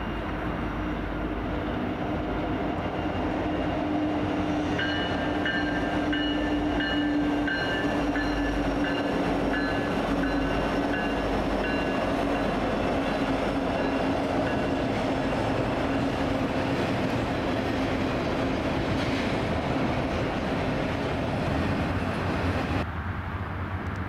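Norfolk Southern diesel freight locomotives and train rolling past: a steady rumble with a low engine drone. From about five seconds in, a high, pulsing metallic ringing sounds for several seconds. The sound changes abruptly near the end.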